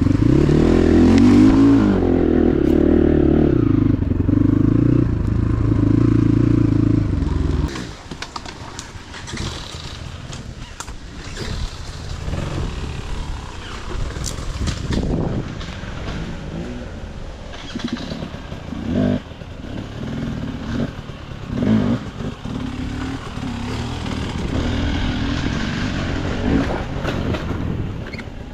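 Motorcycle engine running steadily, then cutting out suddenly about a quarter of the way in. After that come irregular clattering, knocks and scrapes.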